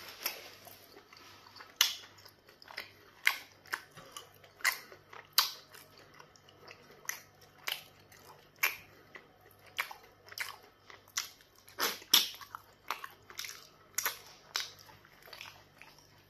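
Close-miked chewing of soft pounded yam fufu and black soup: irregular wet mouth clicks and smacks, about one or two a second.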